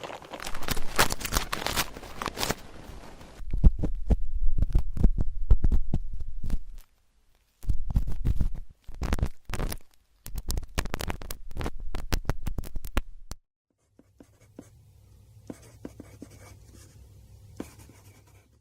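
Ear pick scratching and scraping inside a microphone's ear for ear-cleaning ASMR: dense crackling strokes in bursts with a deep rumble under them, breaking off suddenly about two-thirds through into faint, sparse scratching.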